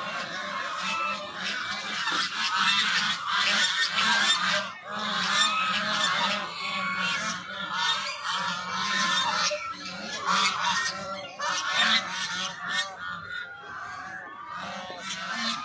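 A flock of geese honking without a break, many calls overlapping.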